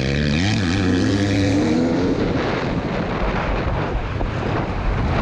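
Two-stroke KTM 300 EXC dirt bike engine revving up, its pitch climbing over the first two seconds, then running on under rough wind and track noise.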